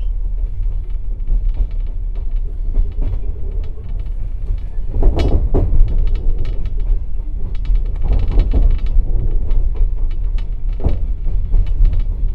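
Passenger train coach moving, heard from inside the compartment: a steady low rumble of the wheels with clusters of clacks as they run over rail joints and points, louder from about five seconds in.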